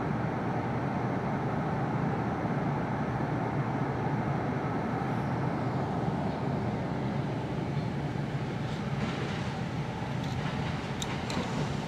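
Kintetsu Ikoma Line commuter train heard from inside the passenger car: a steady rumble of the wheels on the rails. Near the end it turns brighter, with a few sharp clicks and short squeals as the train comes into a station.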